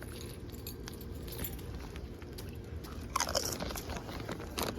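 Someone chewing crunchy tortilla chips close to the microphone, with two louder crunches about three seconds in and near the end.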